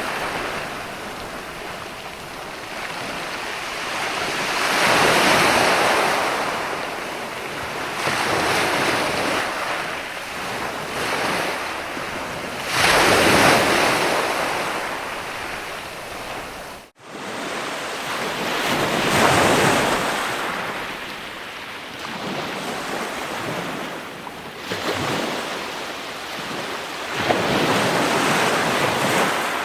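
Ocean waves surging and washing in, swelling and falling back every few seconds. Just past halfway the sound cuts out for an instant.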